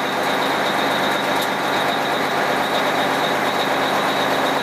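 Fire engine's engine running steadily under throttle, heard from inside the cab, with a thin steady whine above its drone.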